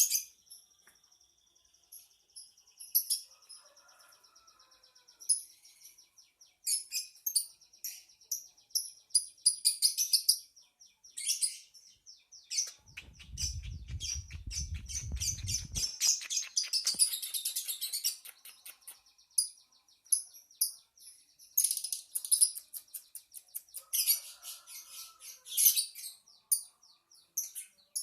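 Lovebird singing: bursts of rapid, high-pitched chirping chatter, some long and trilling, broken by short pauses. A low rumble sits under the chatter for a few seconds midway.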